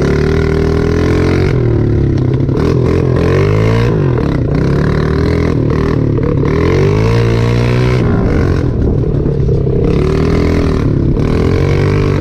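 Dirt bike engine revving up and down as it is ridden. The pitch climbs and drops again every second or two, loud and close.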